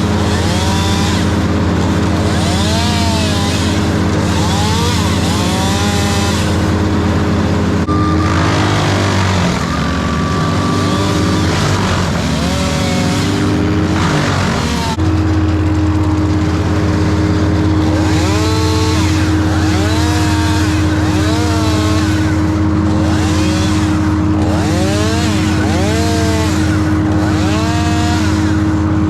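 A large engine running steadily at speed. For several seconds midway its pitch drops and wavers as if under load, then it recovers and runs on steadily. Short rising-and-falling whines repeat over it.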